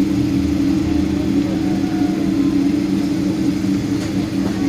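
Steady engine drone and hum of a Boeing 777-200 airliner heard inside its cabin, with several low, unchanging tones over a rushing noise.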